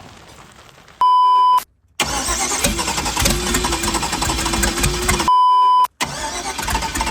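Two loud electronic beeps on a steady pitch, about a second in and about five seconds in, each cut off by a moment of dead silence. Between and after them the twin-turbo engine of a 1981 Chevrolet Malibu runs unevenly, with a steady whine over it.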